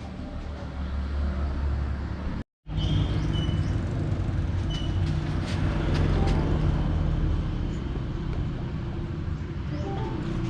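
A steady, low engine hum from a running motor vehicle, with a few light clicks. The sound cuts out completely for a moment about two and a half seconds in.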